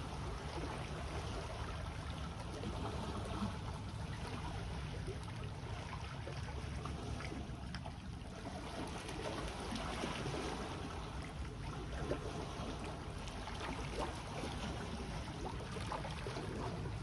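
Small sea waves washing and trickling along the shore in a steady wash, with small crackles and a low rumble underneath.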